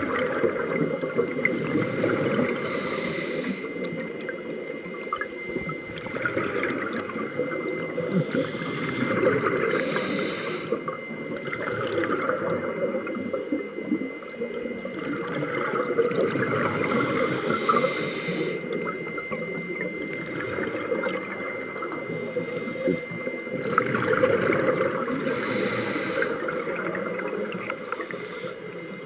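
Scuba diver breathing through a regulator underwater, with a rush of exhaled bubbles every two to three seconds. A thin steady tone sits underneath.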